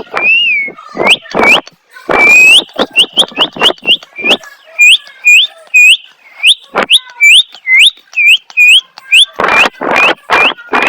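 Parrot whistling a rapid run of short, rising whistle notes, about two a second, mixed with harsh squawks at the start and again near the end.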